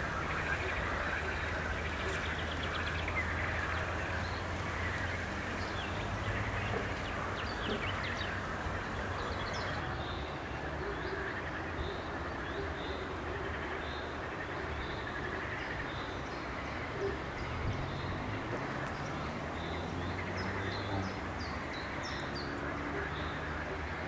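Small songbirds chirping, with short high calls repeated many times from about a third of the way in. Under them runs a steady hiss and a faint low hum.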